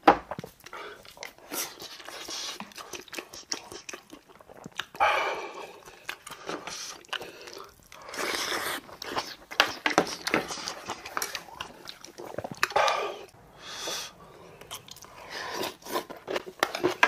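A man eating close to the microphone: wet chewing and crunching with many sharp mouth clicks, and a few breathy sounds about a second long.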